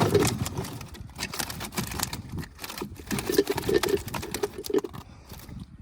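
Rapid, irregular knocking and rustling of a fish trap with live tilapia inside as the fish are taken out.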